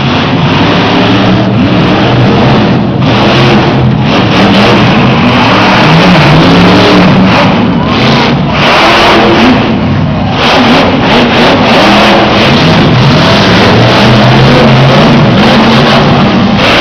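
Monster truck engines revving hard and very loud, the pitch climbing and dropping again and again.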